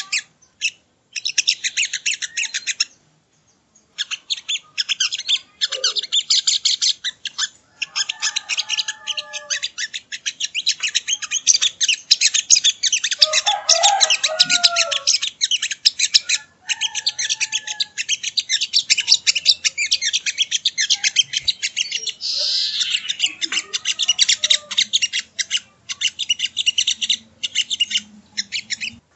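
Sogon (sogo ontong) bird singing: long runs of rapid, high chirping trills broken by short pauses, with a few softer, lower notes mixed in.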